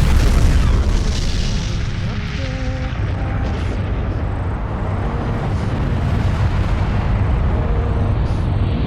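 Explosion sound effect: a sudden loud boom cuts off the music, then a long, steady rumbling roar with heavy low end.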